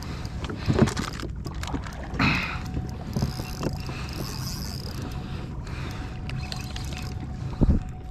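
Water and wind rumbling around a fishing kayak, with a few dull knocks against the boat, the loudest about a second in and near the end.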